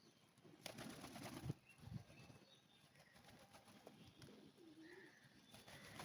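Faint pigeons cooing, with one low coo near the end and a brief rustle about a second in.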